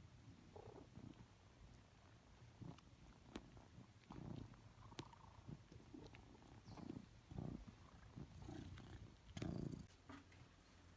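Domestic cat purring quietly, the low rumble swelling and fading in irregular surges, with a few faint clicks.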